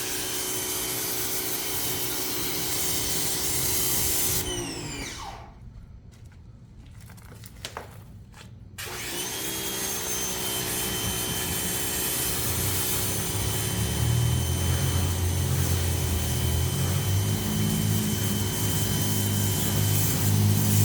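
Ryobi 2000 psi power washer motor running with a steady whine. About five seconds in it winds down and stops, then starts back up and runs steadily again some four seconds later. A deeper rumble builds over the second half.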